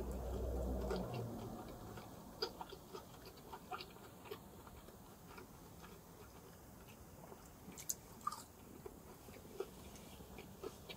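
A person eating an empanada close to the microphone: soft chewing and biting with scattered small crunches and mouth clicks.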